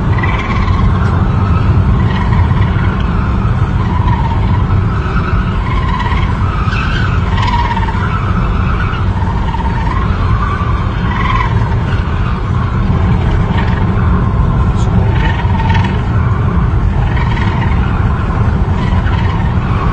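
Car driving, with a steady low road and engine rumble. Through it, wavering higher-pitched sounds come and go.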